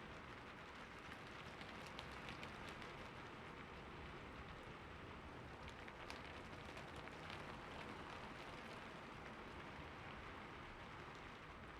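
Steady light rain: a soft, even hiss with scattered single drops ticking on a surface.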